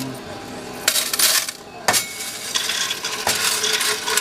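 Loose coins clattering and clinking as they are poured into a Coinstar coin-counting machine. The clatter comes in uneven bursts, with a few sharp clinks.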